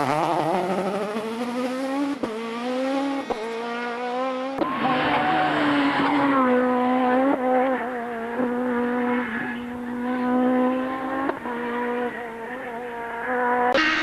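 Rally kit car engine at high revs, its pitch climbing with quick gear changes. About four and a half seconds in the sound switches abruptly to another stretch of engine held high, dipping briefly at each shift.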